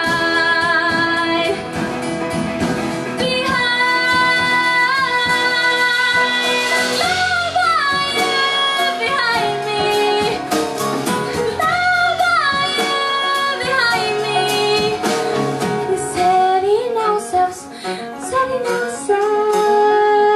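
A female singer holds long sustained notes without words, sliding down in pitch between them, backed by a live band of piano, guitar and drums. Drum and cymbal hits come through more strongly near the end.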